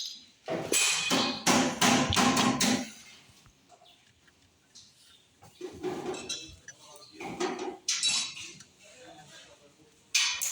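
Metal being struck and knocked, like tools hammering and clanking on metal: a quick run of strikes for about two seconds, then scattered single knocks.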